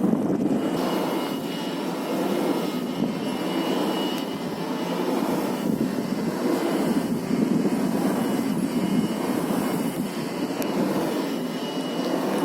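Steady running noise of a vehicle, an even unbroken rush without pauses or sudden events.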